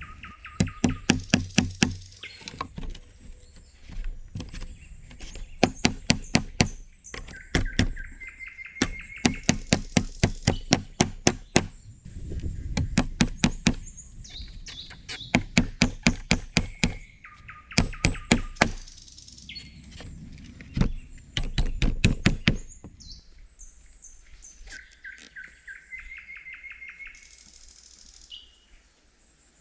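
Bursts of rapid knocking, several sharp strikes a second in runs of one to two seconds, repeated until a few seconds before the end, with birds chirping throughout.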